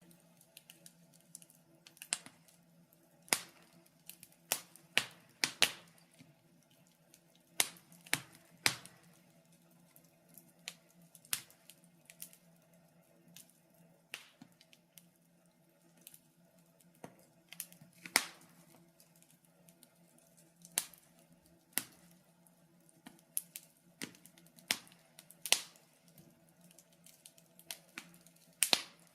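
Wood fire crackling in a fireplace: irregular sharp pops and snaps, a few loud ones every second or two among many faint ones, over a faint steady low hum.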